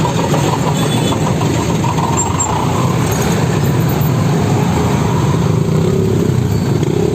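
Steady, loud motor-vehicle engine noise.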